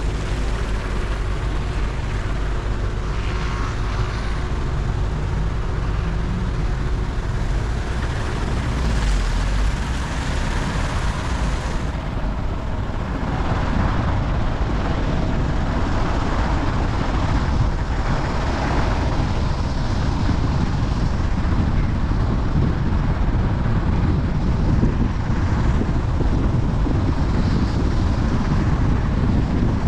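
Steady rushing noise of a moving vehicle and wind, with a heavy low rumble.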